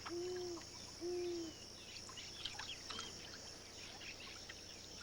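Wetland ambience: a steady high insect drone with scattered small chirps, and two short hooting calls one after the other about a second apart.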